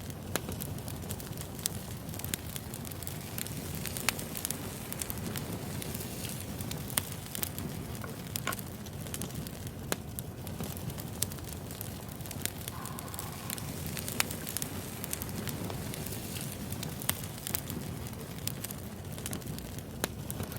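Wood fire burning in a fireplace or stove: a steady low rush of flames with irregular sharp crackles and pops from the burning logs.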